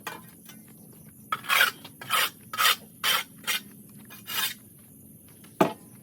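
About six quick, rasping scraping strokes of a hand tool working over the barn floor while cleaning out the goat pen, then one sharp knock near the end.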